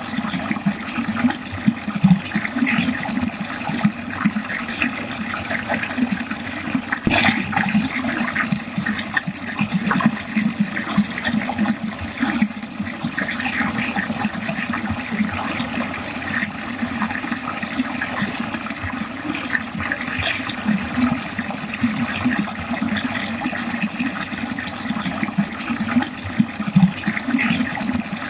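Water flowing steadily into a drain, its level flickering constantly as it runs, with one brief sharp knock about seven seconds in.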